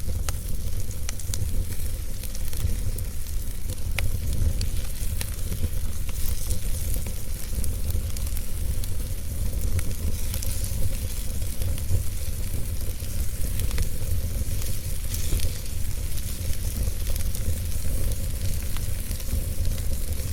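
Fire crackling: scattered sharp pops over a steady hiss, with a constant low rumble underneath.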